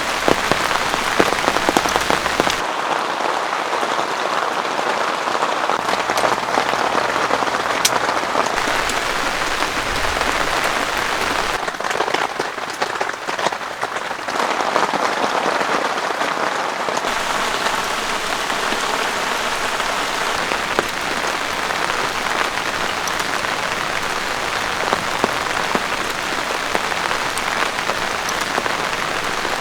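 Steady rain falling in a forest, a dense hiss with many single drops ticking through it. The tone of the rain shifts abruptly a few times, about 3, 12 and 17 seconds in.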